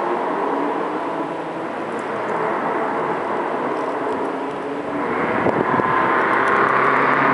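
Toyota MR-S exhaust note through its muffler: the 1.8-litre four-cylinder engine running, growing louder about five seconds in.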